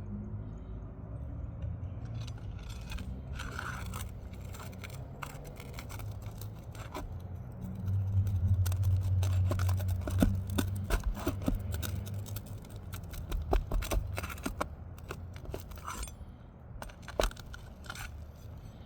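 Pry bar with a P-hook scraping and clicking against asphalt roof shingles as they are lifted and the roofing nails pried out, in irregular scrapes and sharp clicks. A low rumble runs for a few seconds in the middle.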